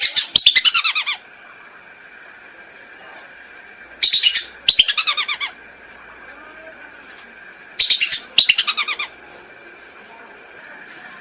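Whistling ducks calling: loud clusters of rapid, high whistled notes, each note sliding down in pitch, coming in pairs of short runs three times about four seconds apart. This is a lure-call recording used to draw the ducks in.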